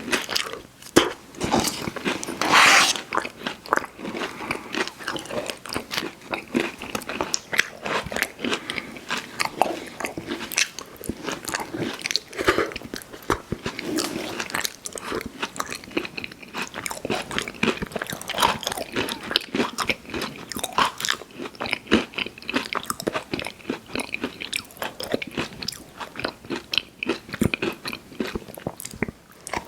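Close-miked eating: crunchy fast-food dessert pie bitten and chewed, with a steady run of crisp, irregular crunches and wet mouth sounds. A louder crunch comes about two and a half seconds in.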